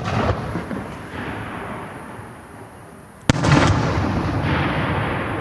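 Aerial firework shells bursting: a sharp bang at the start and a louder second bang a little over three seconds in, each followed by a long rumbling, crackling tail.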